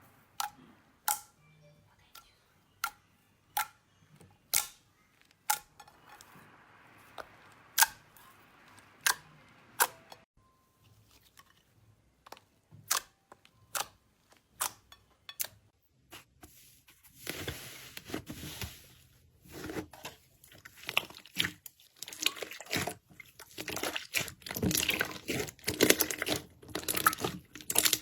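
Slime being played with: sharp separate pops about once a second for the first half, then from about sixteen seconds in a dense, crackly squishing and crunching.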